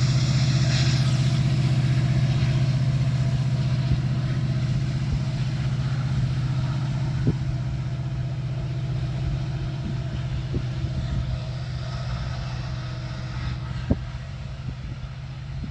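Diesel-electric freight locomotives working hard up a steep grade: a steady low engine drone that slowly fades as they pull away, with a few sharp clicks along the way.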